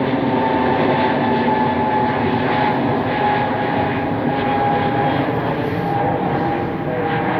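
Jet airliner engines running, a steady loud noise with a high whine running through it.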